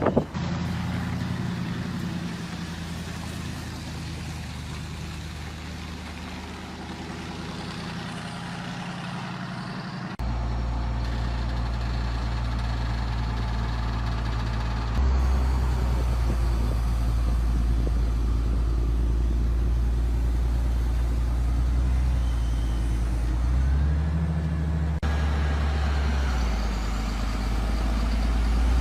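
Heavy truck engine running steadily at low revs, its low note changing abruptly and growing louder about ten, fifteen and twenty-five seconds in.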